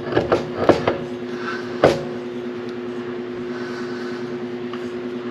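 A few metal knocks and clicks in the first two seconds as an electric PTO clutch is worked up onto the engine shaft and lined up with the keyway, the last one the loudest. A steady low hum runs underneath.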